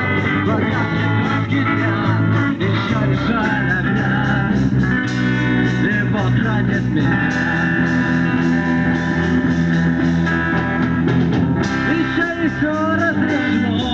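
Rock band playing an instrumental passage: guitar with bending lead notes over bass and a steady drum beat.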